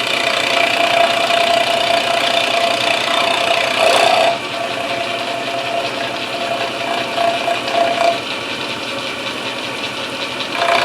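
Milling machine running with a steady whine, its cutter milling the action inletting in an English walnut gunstock. It is louder for about the first four seconds, drops, and rises again near the end.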